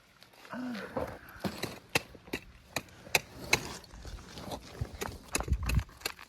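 Hand digging tool striking and scraping through rocky clay while digging for quartz crystals: a string of sharp, irregular clinks and knocks, a few a second.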